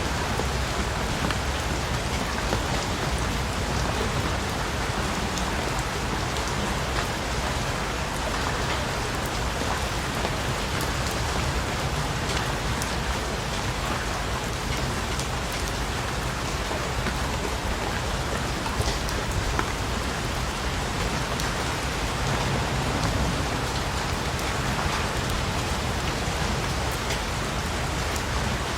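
Steady rain falling, a continuous even hiss with scattered drops pattering on a surface.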